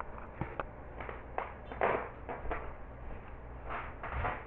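Faint scattered rustles and light knocks of someone moving about and handling things, with a couple of slightly louder knocks near the middle and near the end.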